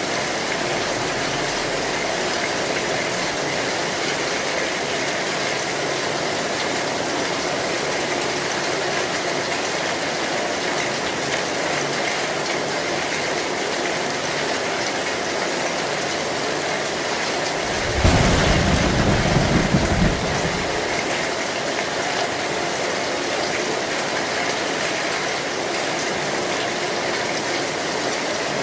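Heavy rain falling steadily on an old metal zinc roof. About eighteen seconds in, a low clap of thunder rumbles for two or three seconds.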